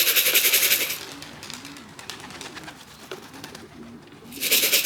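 Young racing pigeons cooing, low wavering calls through the quieter middle stretch. A loud, fast rattle plays for about the first second and starts again near the end.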